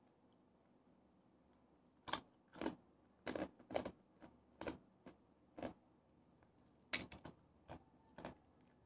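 Crunchy chewing of crispy deep-fried pork intestine (chicharon bulaklak), a run of sharp crunches about twice a second starting about two seconds in, with a brief pause before more crunches near the end.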